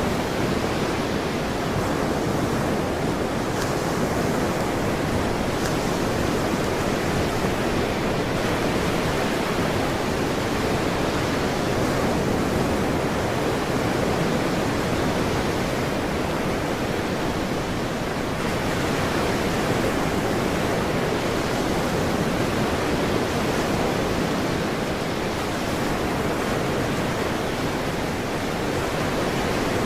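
Ocean surf: a steady, dense wash of breaking waves, swelling gently now and then.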